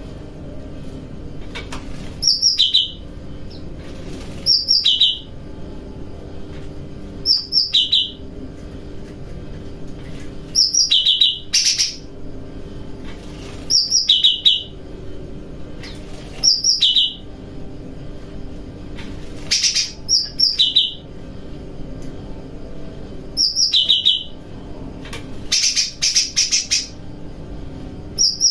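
A cucak rante songbird calls a short, loud, high-pitched phrase about every three seconds. Each phrase is a quick run of notes that steps down in pitch. A faint steady hum runs underneath.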